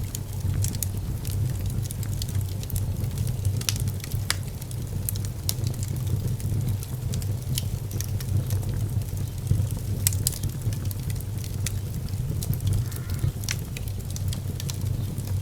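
Fire in a fireplace crackling, with sharp pops at irregular moments over a steady low rumble.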